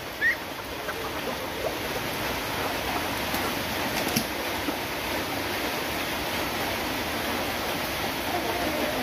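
Steady rain falling, a continuous even hiss. A short high call sounds just after the start, and a faint click about four seconds in.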